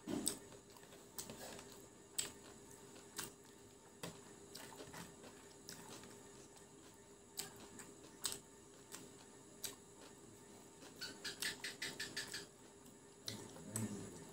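Close-miked chewing of crispy fried chicken pakora: scattered crisp crunches and mouth clicks, with a quick run of crunches about eleven seconds in, over a faint steady hum.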